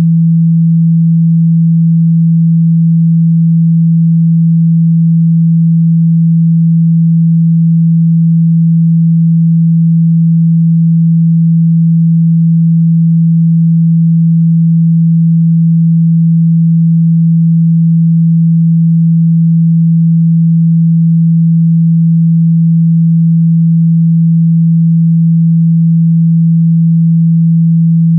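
A steady, loud 165 Hz sine-wave test tone, a single low hum held at one pitch, played to shake water and dust out of a phone speaker.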